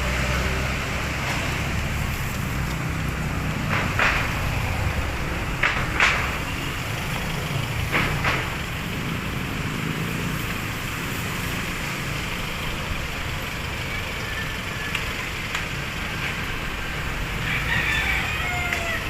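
City street traffic: steady rumble of passing vehicles' engines and road noise, with a few short sharp hisses between about four and eight seconds in.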